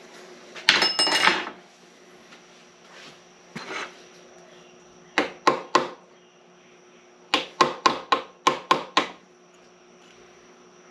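Hammer blows on steel: three quick strikes about five seconds in, then a run of six at about three a second. They knock up the locking tabs on a rusted lock nut on an SM465 transmission's shaft. Near the start there is a short metallic clatter of tools.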